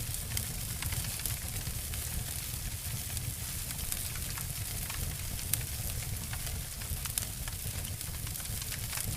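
Two layered wood-fire recordings, a campfire and a fireplace, crackling and snapping: scattered sharp pops over a steady hiss and low rumble, the loudest pop a little past halfway.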